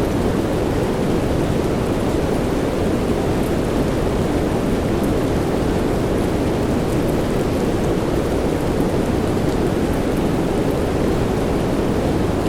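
Steady soft rain, an unbroken even hiss weighted low and muffled, with faint scattered drop ticks.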